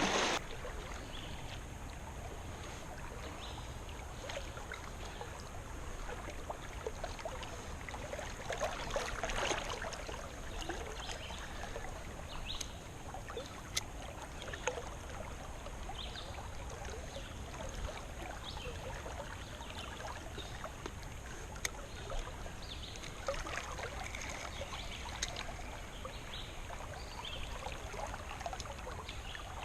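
Creek water running in a strong current over rocks: a steady rush with many small splashes and trickles.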